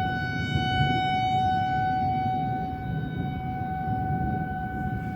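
Outdoor tornado warning siren sounding one steady, unwavering tone, heard over a low rushing background noise.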